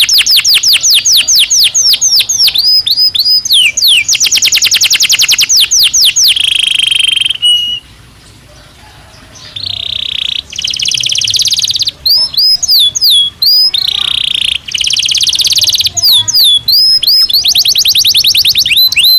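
Belgian canary singing loudly: fast trills of rapidly repeated high notes alternating with swooping, down-slurred notes, with a brief pause about eight seconds in.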